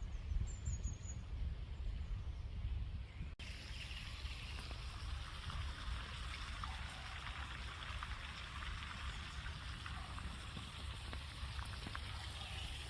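Outdoor ambience: a steady rushing noise over a low rumble, with a brief high bird chirp near the start. The sound changes abruptly about three seconds in.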